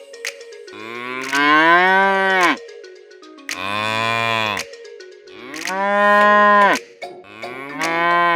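Cow mooing four times, each moo a drawn-out call about a second long that rises and then falls in pitch.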